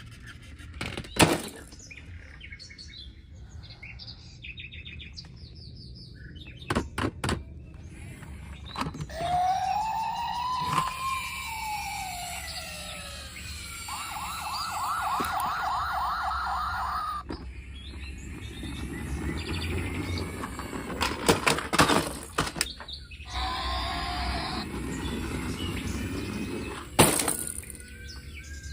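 A jumble of toy-vehicle sound effects: a siren-like tone that rises then falls, a fast warbling tone lasting about three seconds, chirps, and several sharp clicks.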